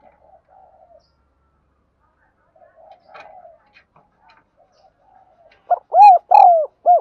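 Spotted dove cooing. Faint coos come early and again near the middle, then a loud phrase of four coos near the end: a short note, two longer ones, and a short closing note.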